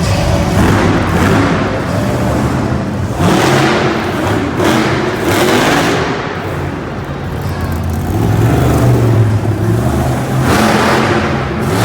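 Monster truck engine revving hard in repeated surges, rising and falling every second or two, during a wheelie run.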